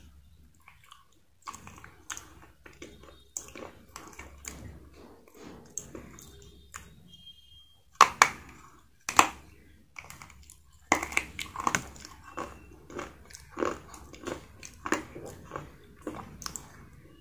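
Close-up eating sounds of someone biting into and chewing crispy fried chicken: wet chewing with crisp crunches, loudest about eight and nine seconds in, then a quick run of crunchy bites from about eleven seconds.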